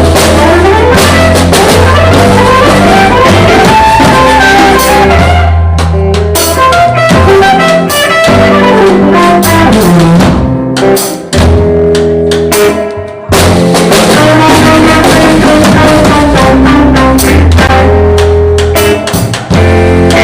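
Live band jamming: drum kit and bass driving the groove with guitar over it, recorded loud and poorly. The band briefly drops back about eleven seconds in, then comes straight back in.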